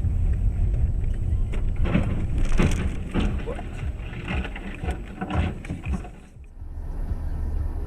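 Low road and engine rumble from a moving car picked up by a dash camera, with a run of short, sharp noises in the middle. The rumble dips briefly near the end, then resumes steadier.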